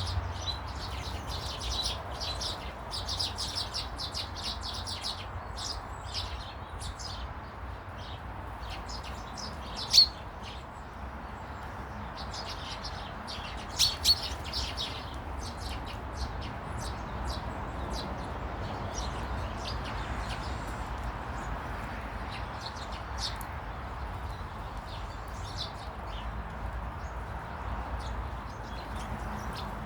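Small garden birds chirping and twittering in quick clusters over a steady low rumble. A sharp knock comes about ten seconds in, and another a few seconds later.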